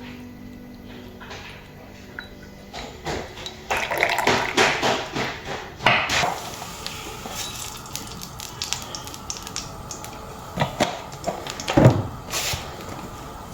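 Household handling noises: a few seconds of clattering and rustling, then scattered clicks and knocks, with one louder thump near the end.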